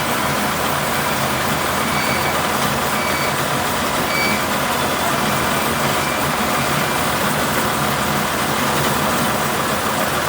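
Truck engine running steadily under a constant noise haze, with a few faint short high tones in the first half.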